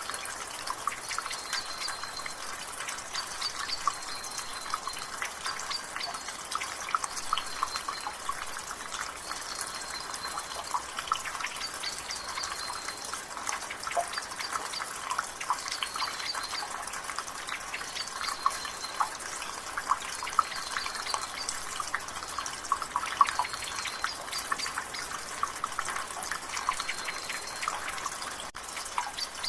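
Rainwater dripping and splashing from a gutter, a dense steady patter of drops over a light rain hiss. In the background a bird repeats a short, high, even note about every two seconds.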